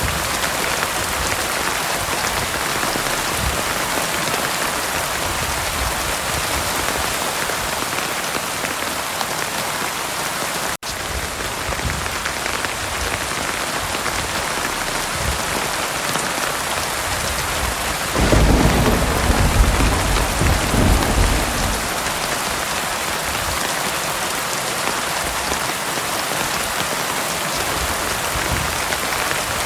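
Heavy rain pouring steadily, with a low rumble of thunder rolling in about two-thirds of the way through and lasting a few seconds. The rain cuts out for an instant about a third of the way in.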